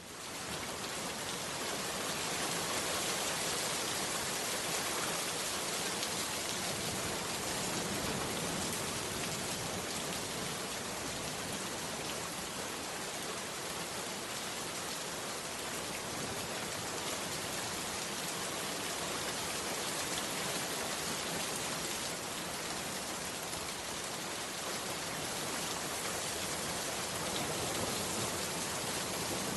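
Heavy rain falling steadily, fading in from silence at the start and then holding an even hiss.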